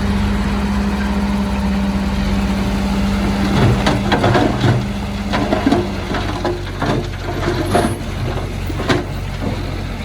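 Bulldozer's diesel engine running steadily, with a run of irregular knocks and clanks starting about three and a half seconds in, typical of the machine's tracks and blade working soil.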